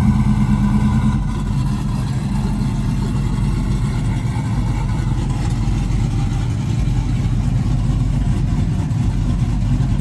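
A vehicle engine running close by, a deep, steady rumble.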